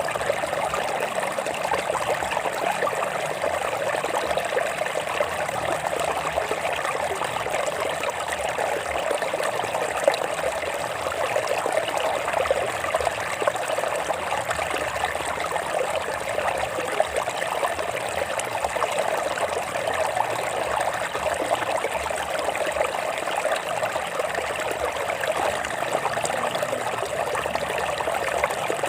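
Shallow stream water running and trickling over rocks, a steady babbling flow.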